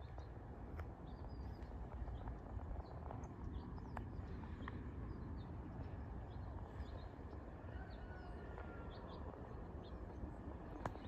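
Small birds chirping here and there in short high notes, over a steady low rumble of wind on the microphone, with a few sharp clicks.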